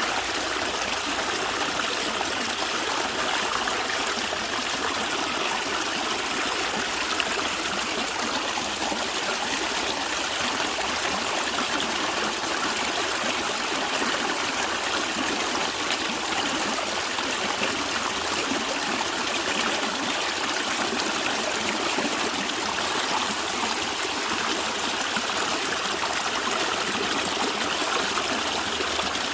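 Stream water flowing and gurgling steadily over stones, an even rushing trickle without pauses or changes.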